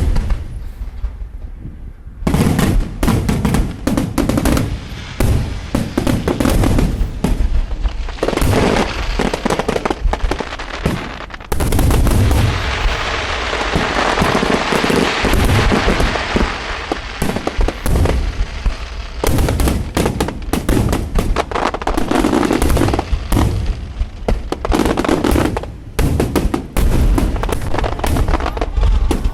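Aerial fireworks display going off in a rapid barrage: a fast string of bangs and shell bursts starts about two seconds in, thickening into dense crackling through the middle stretch.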